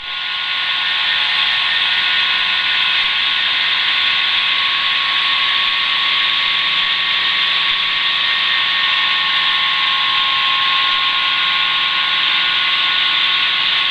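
Schweizer 300CBi light helicopter, with its four-cylinder piston engine and rotors, running steadily at flying power as it lifts off, heard from inside the cabin as a loud, even hiss with a steady hum.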